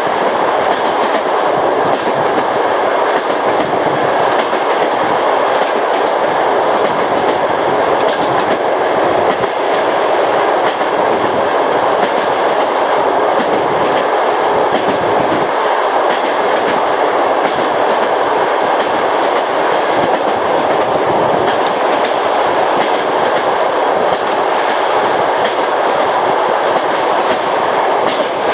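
Train wheels rolling over rail joints: a steady rumble with a continual clickety-clack of clicks as the wheels cross the joints.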